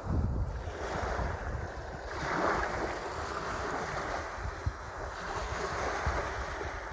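Sea waves washing, one swelling up about two seconds in, with wind buffeting the microphone.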